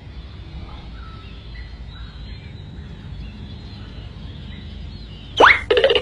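Small bird chirping faintly over a low rumbling background. Near the end there is a sudden loud rising squeal, then a harsh, rapidly pulsing buzzy call that lasts about a second.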